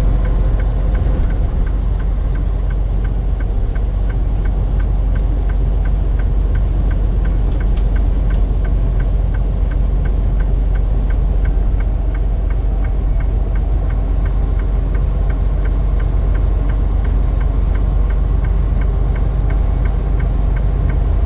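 Vehicle engine running with a steady low rumble, with a fast, even ticking over it.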